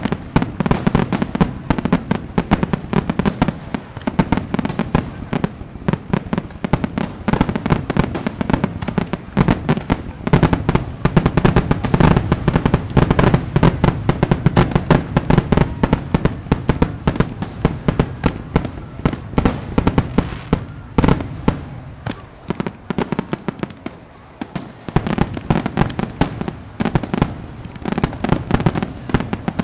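Fireworks display: continuous dense crackling and popping with heavier bangs mixed in, easing off briefly a little after the middle before building again.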